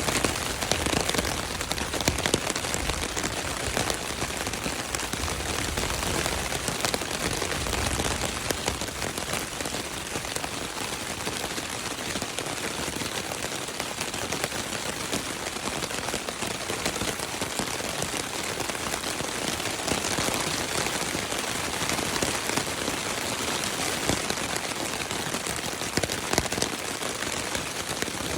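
Heavy rain pattering steadily on a tent's fabric, a dense stream of fine drop impacts.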